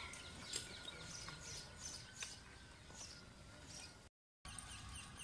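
Birds chirping in the park trees: many short, high chirps repeating, with the sound dropping out completely for a moment about four seconds in.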